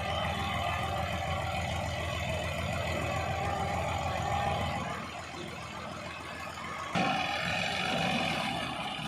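Tractor engine running steadily. It eases off a little past the middle, then gets suddenly louder about two-thirds of the way through.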